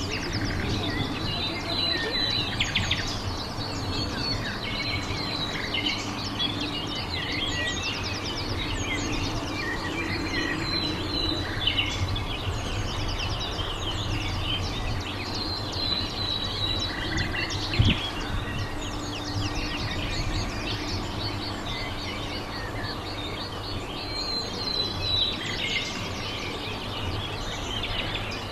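Small birds chirping and twittering throughout over steady outdoor background noise, with a single sharp knock about two-thirds of the way through.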